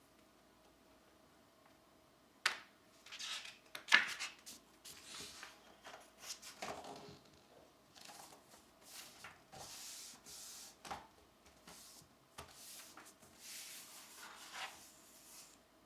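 Pencil strokes scratching on a coloring-book page, a run of short strokes with small pauses between them. A sharp click comes about two and a half seconds in and a louder tap about four seconds in.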